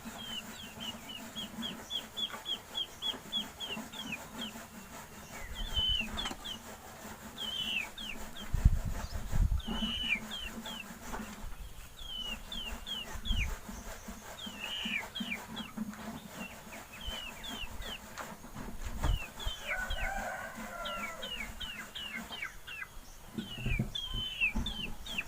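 Chicks peeping: runs of short, high, falling chirps, at times about four a second, with a lower chicken call about two-thirds of the way through and a few low thumps.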